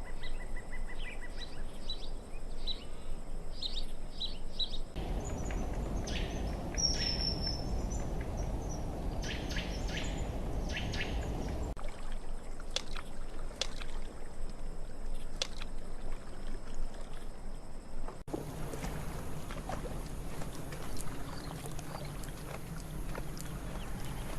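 Spliced nature recordings that change abruptly three times: short bird chirps and calls, then a stretch with a loud low rushing noise under the calls, then more calls over a low steady hum.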